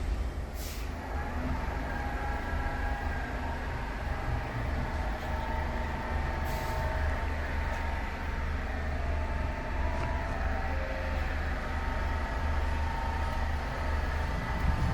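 New York City subway train running, with a steady low rumble and high, thin whining tones. Two short hisses come about a second in and around seven seconds in.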